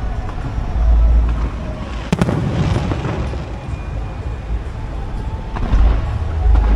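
Aerial fireworks bursting: deep rumbling booms about a second in and near the end, a sharp crack about two seconds in, and scattered crackling, with the show's music playing.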